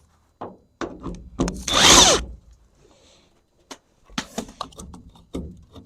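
Handheld power tool spinning out a small 10 mm bolt in one short whirring burst about a second and a half in, its pitch falling as it stops. Light clicks and metal clatter follow near the end.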